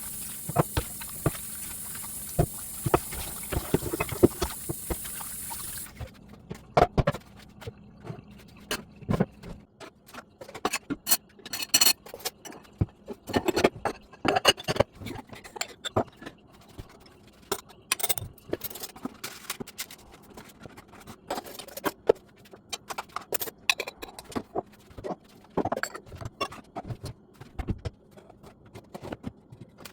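Irregular clicks and knocks of things being handled, with a steady hiss that cuts off suddenly about six seconds in.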